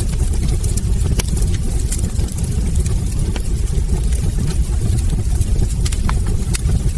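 Wood fire burning in a fireplace: a steady low rumble of flames with irregular, sharp crackles and pops from the burning logs.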